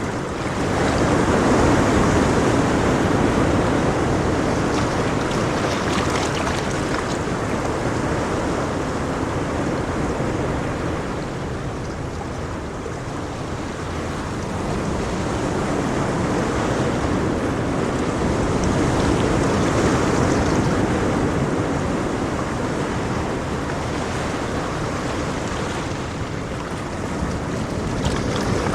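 Ocean waves washing onto a shore in a steady rush of surf, swelling and easing slowly every several seconds.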